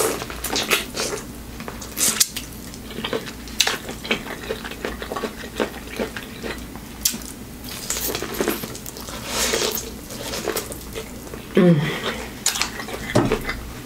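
Close-miked biting and chewing of corn on the cob: kernels crunching and clicking off the cob in irregular bites, with wet mouth smacks. Near the end comes a short falling hum from the eater.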